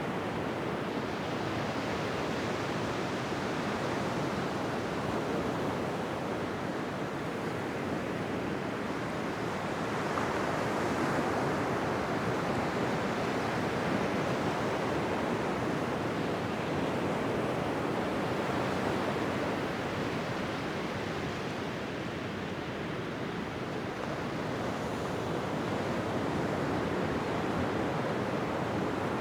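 Ocean surf: a continuous wash of waves breaking on a beach, swelling and easing slowly every several seconds.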